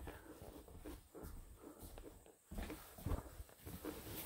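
Faint footsteps and handling noises on a subfloor: soft, irregular shuffles and light knocks.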